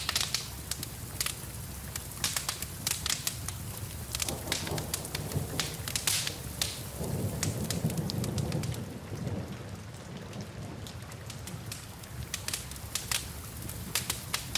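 Wood fire crackling with sharp snaps over a steady hiss of rain. A low rumble swells for a couple of seconds about halfway through.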